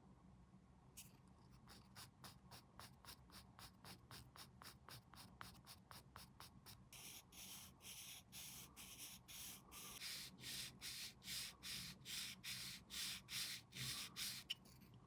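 Hand sanding a small plastic model part: quick, faint back-and-forth rubbing strokes, about three a second. They grow louder and scratchier about halfway through, then stop just before the end.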